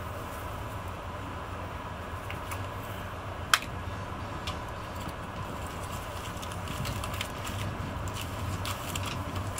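Steady running noise inside the passenger cabin of a Renfe AVE S-102 (Talgo 350) high-speed train at speed: a low rumble with a thin steady tone over it. Scattered small clicks, with one sharp click about three and a half seconds in.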